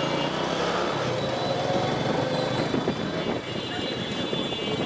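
Steady road traffic noise from a motorcycle ride through a traffic jam: vehicle engines running, with no single event standing out.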